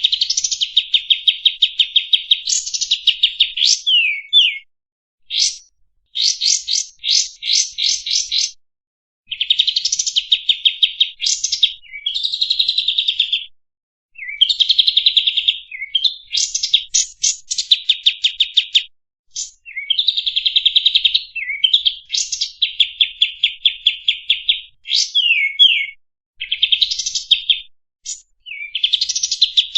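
Kapas tembak (white-shouldered triller) song: high-pitched, rapid trills and fast runs of repeated notes in phrases of a second or two, separated by short pauses.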